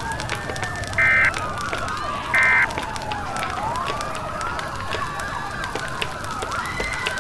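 Several emergency sirens wailing over one another, rising and falling, over a bed of crackling. Three short, loud electronic data bursts, the EAS end-of-message tones, sound about a second apart: one ending just at the start, then one about a second in and one about two and a half seconds in.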